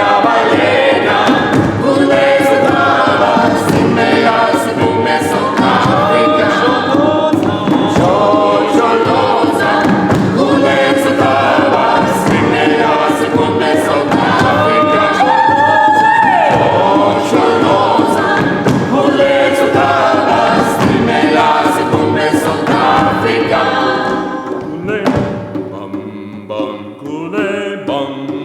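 Vocal ensemble singing a cappella, many voices in harmony, with short sharp clicks through the song. The full sound thins out and drops in level about 25 seconds in.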